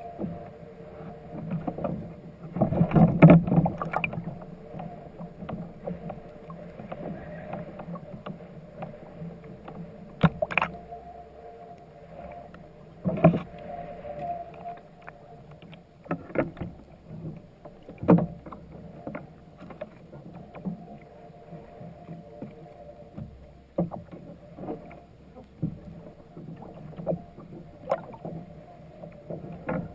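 Fishing kayak on the water: scattered knocks and light water splashes against the hull over a steady low hum, with a louder cluster of knocks about three seconds in.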